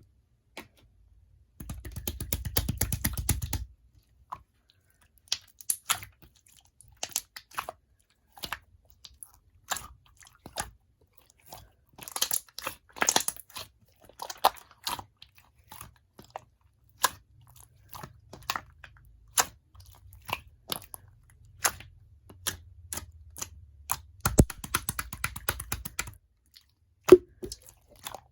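Clear glitter slime being squished and pressed by hand, making sticky clicking and popping sounds. A dense run of rapid clicks comes about two seconds in, then scattered single clicks and short clusters follow.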